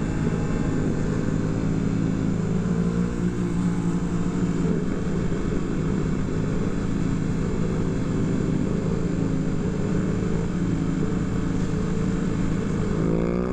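Motorcycle engine running steadily at cruising speed, mixed with a rushing noise of wind; the engine note rises near the end as it speeds up.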